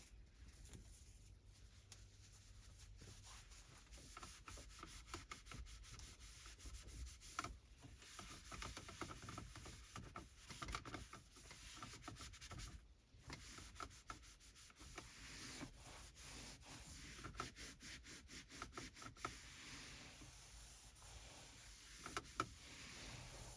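Microfiber cloth rubbing over a car's interior surfaces in quick, uneven wiping strokes, soft and faint.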